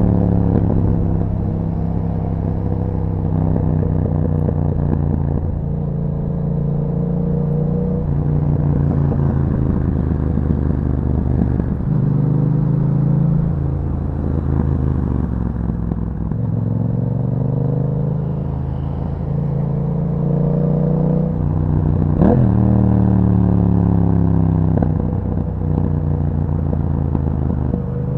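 Yamaha MT-07's parallel-twin engine through an Akrapovič exhaust while riding. The engine pitch climbs under acceleration and drops back with each gear change, several times over.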